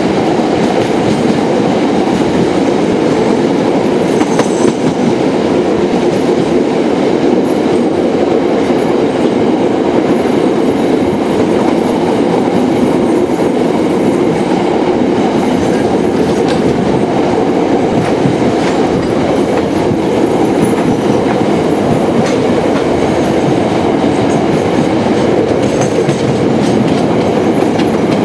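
Train running along the track: a loud, steady rumble of wheels on the rails.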